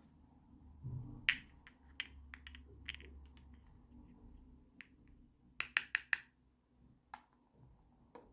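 Small plastic toy kitchen pieces being handled, clicking and tapping against each other over a low rustle, with a quick run of four clicks about six seconds in.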